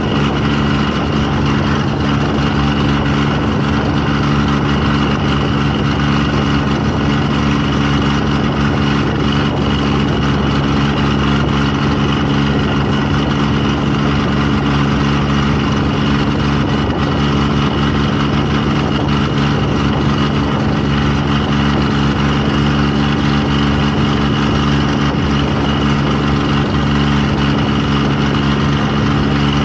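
Engine running steadily at an even speed, with a constant low hum and no change in pitch.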